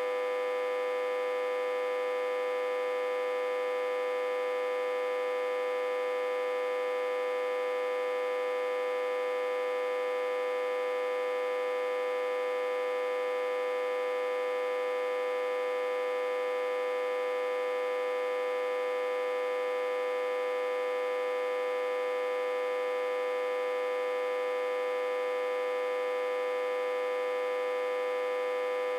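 Autotransformer humming, one steady unchanging tone with many overtones. The hum comes from feeding it about 60–80 V while it is reverse-connected to a step-down transformer.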